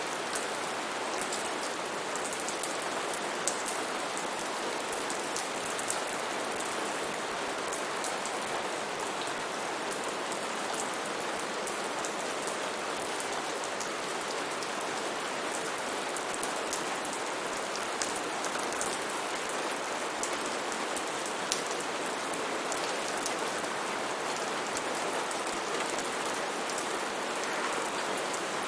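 Steady rain falling on foliage and surfaces, a constant hiss with scattered sharp drips and drop ticks.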